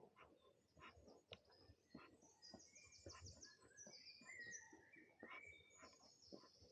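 Faint songbird song: quick runs of high chirped notes and a few lower whistled notes, over soft irregular crackles and ticks.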